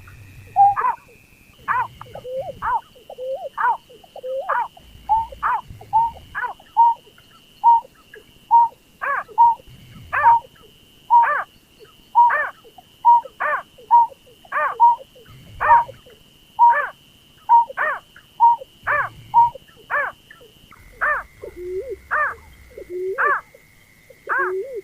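Recorded call of the berkik (pekung), a paddy-field bird: short calls repeated in a quick, even series, more than one a second, each sweeping in pitch. A steady thin high tone runs beneath the calls and shifts a little lower near the end.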